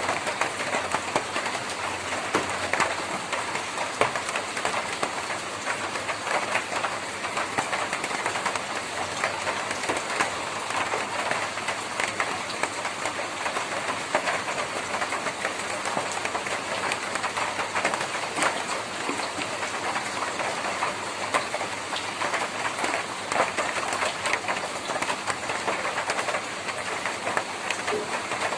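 Steady rain drumming on a tin roof: a dense, even patter of drops striking the metal, with scattered louder single drop hits.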